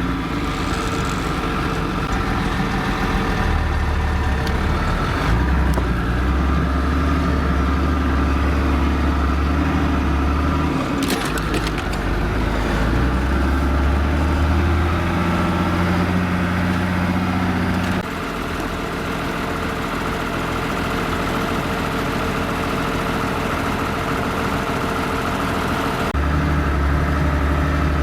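Off-road vehicle engine running continuously under changing load. Its low drone swells, drops off sharply about eighteen seconds in, and picks up again near the end.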